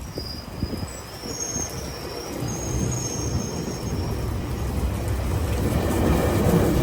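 GO Transit passenger train rolling slowly along the station platform, its wheels squealing in steady high tones over a low rumble. The squeal dies out about four seconds in, and a broad rumble swells near the end.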